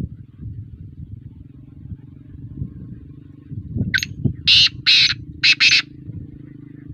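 Black francolin calling: one harsh, grating phrase of five notes, a short one, two longer ones, then two short ones close together. A steady low hum runs underneath.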